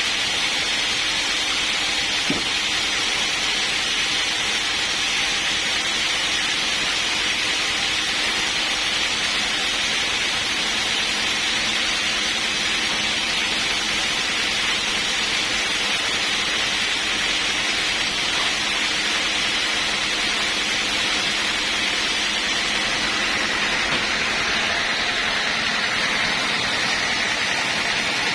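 Sawmill machinery running steadily, a constant hissing noise with a faint hum beneath that holds level throughout.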